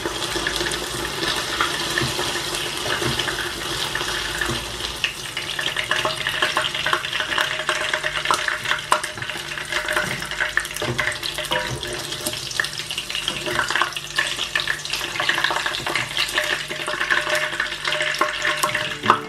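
Chicken pieces coated in cornflour frying in hot oil in a non-stick pan: a steady, dense crackling sizzle full of fine pops.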